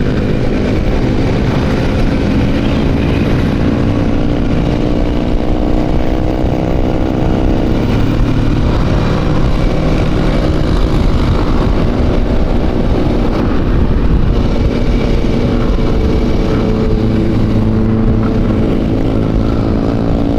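Motorcycle engine running at a steady cruise with the pitch drifting gently up and down, under constant low wind rumble.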